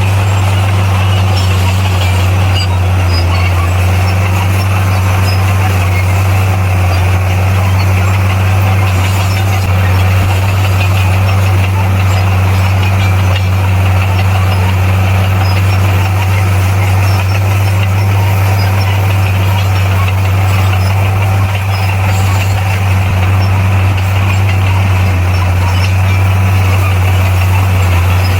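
Komatsu D58P crawler bulldozer's diesel engine running with a steady, even low drone.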